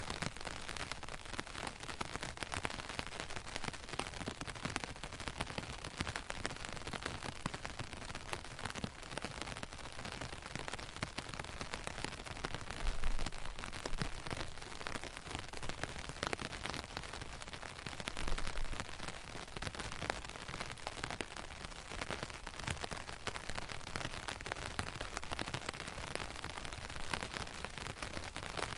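Steady rain pattering, a dense hiss of many small drop ticks, with two brief low rumbles partway through.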